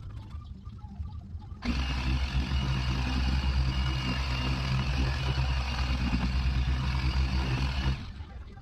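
Electric car polisher switched on, running steadily with a low hum and a hiss for about six seconds, then switched off.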